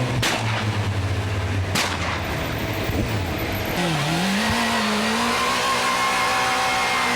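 Motorcycle engines running, with two sharp cracks about a second and a half apart near the start. From about four seconds an engine note dips, rises again and then holds steady.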